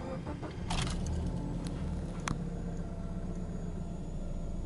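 Subaru Legacy 2.0GT's turbocharged 2.0-litre flat-four being started: brief starter cranking with clicks, the engine catching under a second in, then running at a steady cold fast idle of about 1,100 rpm.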